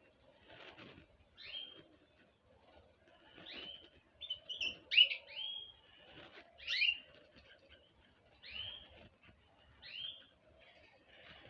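Small birds chirping: short, sharp sweeping calls repeated every second or two, with a louder cluster about halfway through.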